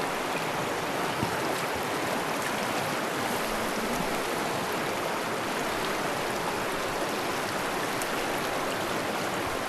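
Fast-flowing mountain river rushing, a steady, even roar of water.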